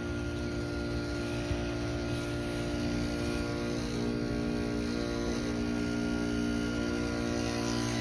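Trane XR13 heat pump outdoor unit running in defrost mode, its compressor giving a steady electrical hum of several level tones while the coil steams off its ice.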